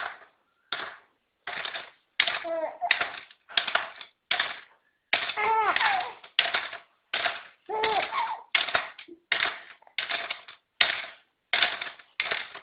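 A small child laughing in a run of short, breathy bursts, about one to two a second, some breaking into a high wavering voiced squeal.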